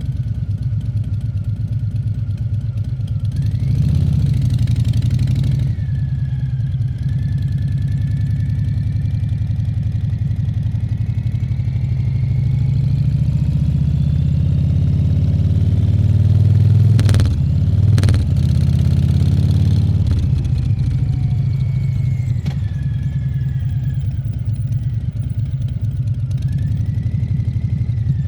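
Harley-Davidson Fat Bob 114's Milwaukee-Eight 114 V-twin engine running under way, a deep steady sound that swells briefly about four seconds in and builds to its loudest in the middle. Two sharp clicks come about a second apart just past the middle.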